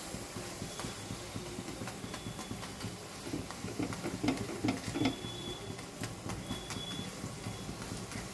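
Lachha paratha shallow-frying in oil in a non-stick pan: a steady soft sizzle, with light scrapes and taps of a metal spatula against the pan.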